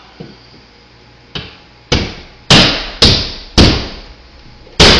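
A series of sharp knocks, six in all, about half a second apart from a little over a second in, the middle four loudest, with a pause before the last.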